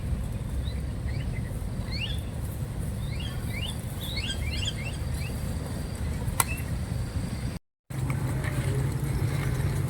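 Small birds chirping in short, quick rising notes, several in a cluster, over a steady low rumble. There is one sharp click a little past six seconds in, and the sound cuts out completely for a moment shortly after.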